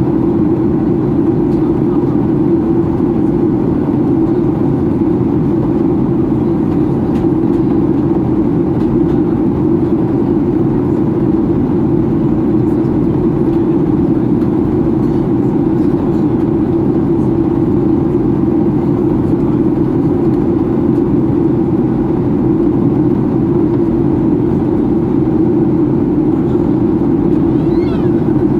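Steady cabin noise inside a Boeing 737-800 in flight: a constant rush of airflow with the low drone of its CFM56 engines, unchanging throughout, during the descent.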